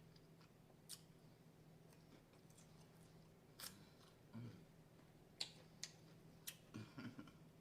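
Faint close-up eating sounds: several sharp crunches of biting into crispy fried chicken and soft chewing, spaced a second or two apart, over a low steady hum.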